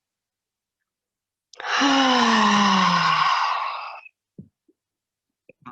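A woman's long, breathy, voiced sighing exhale, starting about a second and a half in and falling steadily in pitch for about two and a half seconds, breathed out into a forward-folding yoga stretch. A few faint ticks follow near the end.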